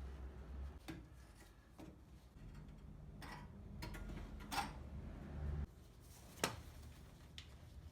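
A few separate sharp clicks and knocks, about four of them with the loudest past the middle, over a low steady hum.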